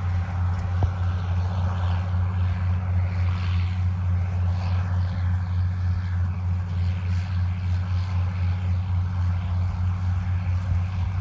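Farm machine engine running steadily under load, a constant low drone with a hiss above it.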